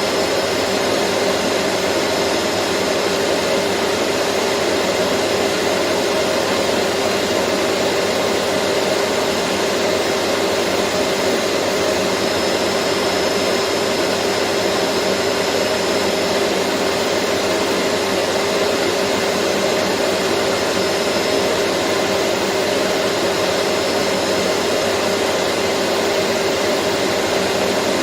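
Vacuum cleaner running steadily: an even, unbroken whoosh of motor and airflow with a steady low hum under it and no change in speed.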